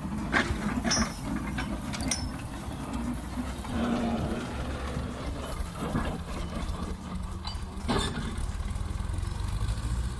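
Tractor engine running steadily at idle, with a few sharp mechanical clicks and knocks over it.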